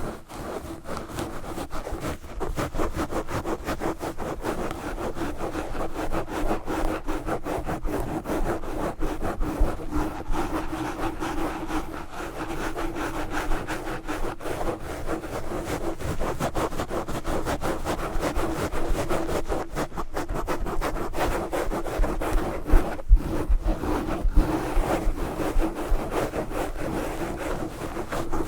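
Knitted yarn gloves scratching fast and hard directly on a microphone: a continuous run of rapid scratching strokes.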